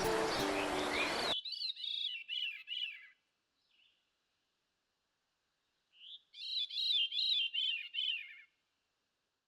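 Background music cuts off abruptly about a second in, leaving a songbird singing two short phrases of quick, repeated chirps a few seconds apart, with near silence between and after.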